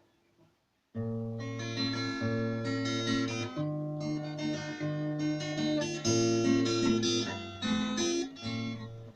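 Acoustic guitar playing chords, starting about a second in after near silence.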